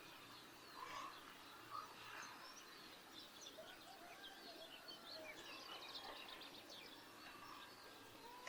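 Faint chorus of small birds chirping and twittering, many short calls overlapping, with a rapid trill about six seconds in.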